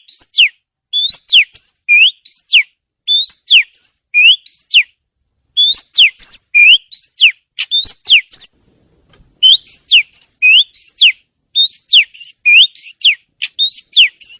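Oriental magpie-robin singing: quick groups of clear whistled notes that sweep up and down, repeated with short pauses and one longer break a little past halfway.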